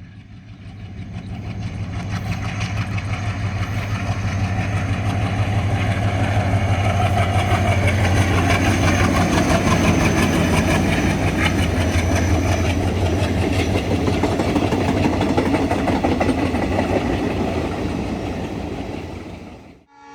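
Diesel train hauled by an ALCO locomotive passing at speed: the engine's low drone and the rolling noise of the train swell over the first several seconds, stay loud through the middle, and fade away near the end, cutting off abruptly just before it.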